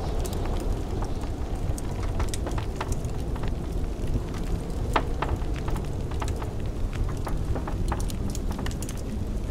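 Wood fire crackling in a fireplace, with frequent sharp irregular pops over a steady low rumble of blizzard wind.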